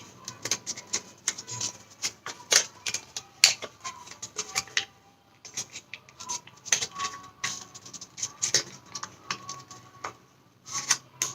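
Origami paper crinkling and crackling in irregular clicks as it is handled, a flap opened and pushed inside a folded wing, with two short pauses.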